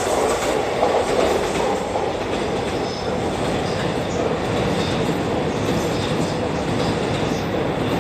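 Rinkai Line 70-000 series electric train pulling away, its wheels running on the rails with a steady running noise.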